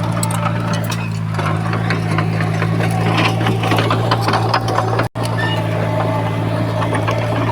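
Heavy construction machine's diesel engine running steadily, with irregular metallic clicking and clatter over it. The sound cuts out for an instant about five seconds in.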